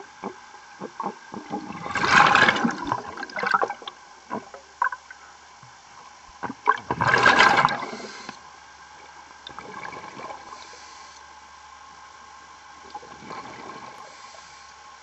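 Underwater bubbling and gushing water in two loud surges, about two and seven seconds in, with scattered clicks over a faint steady hum.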